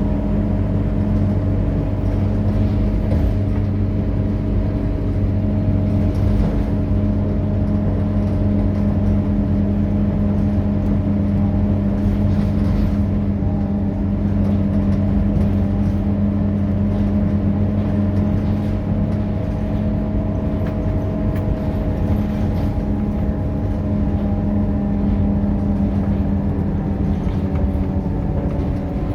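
Scania K230UB city bus's diesel engine running at a steady pace, a constant low drone with a few higher tones that drift slightly in pitch late on.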